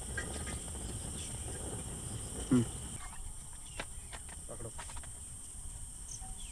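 Steady high-pitched chirring of insects, crickets or cicadas, in the forest, with a brief low call or vocal sound about two and a half seconds in and a few faint clicks.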